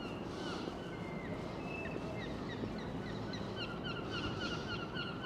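Birds calling outdoors in short, repeated high notes, more often in the second half, over a steady hum of outdoor background noise.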